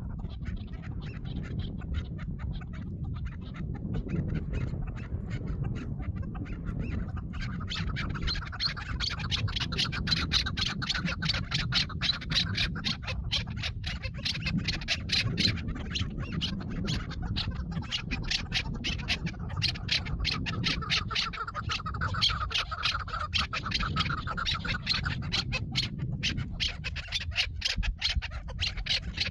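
Chukar partridge calling: a long, fast run of clucking notes that grows louder about eight seconds in, over a low rumble.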